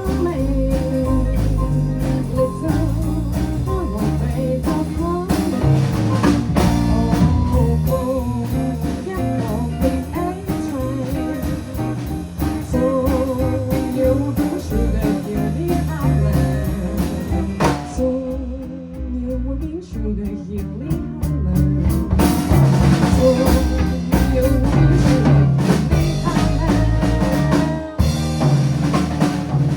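Rock band playing live in rehearsal, with guitar, drum kit and singing. About two-thirds through, the drums and cymbals drop out for a few seconds, then the full band comes back in.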